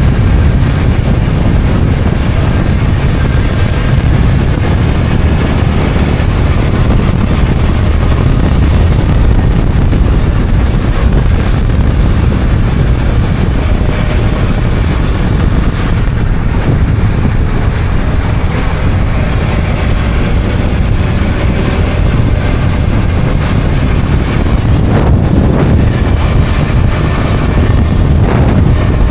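BMW F800GS parallel-twin engine running as the motorcycle rides along, under a steady rush of wind on the microphone.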